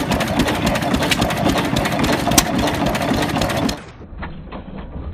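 Lister L stationary engine running, a fast, even mechanical clatter. Near the end the sound suddenly turns quieter and duller, the clatter stretched out into separate knocks a few a second as the audio slows to slow motion.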